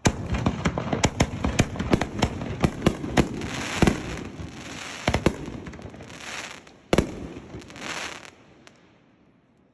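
Consumer artillery-shell fireworks bursting overhead: a rapid string of sharp reports with crackling, trailing off near the end.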